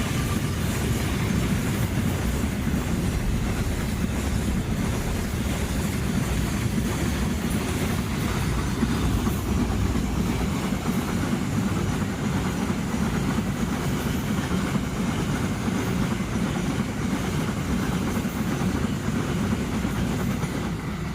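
A train passing close by: a steady, loud rumble of wheels on the rails with some clickety-clack.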